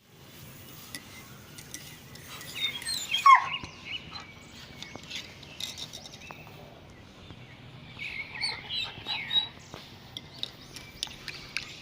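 High-pitched squeaky animal calls in two bursts, one about three seconds in that ends in a steep downward glide and another around eight to nine seconds, with scattered light clicks between.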